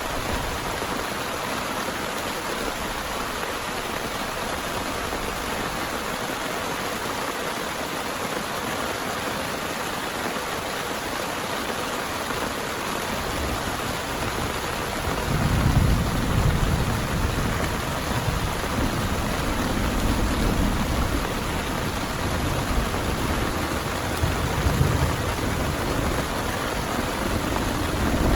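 Heavy rain falling steadily. About halfway through, thunder rolls in as a low rumble that swells and fades several times, loudest right at the end.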